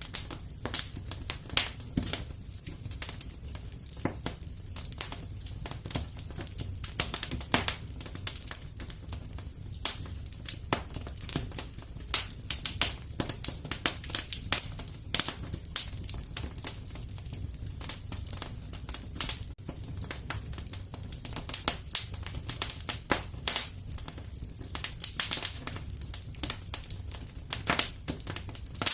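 Wood fire in a fireplace crackling steadily, with irregular snaps and pops several times a second, some louder than others, over a low steady rumble of the flames.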